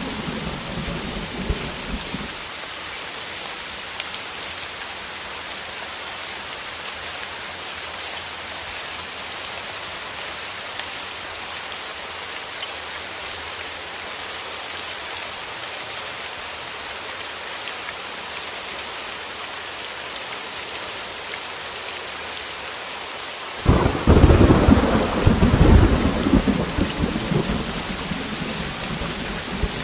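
Steady heavy rain, with a rumble of thunder dying away in the first two seconds. A loud thunderclap breaks in suddenly about three quarters of the way through and rolls on, fading toward the end.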